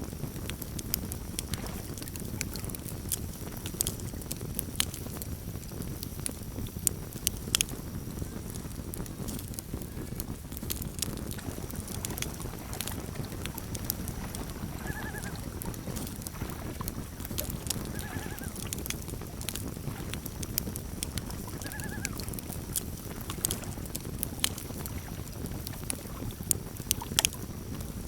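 Campfire crackling: irregular sharp pops and snaps over a steady low rumble. Three short pitched calls, a few seconds apart, come from somewhere beyond the fire midway through.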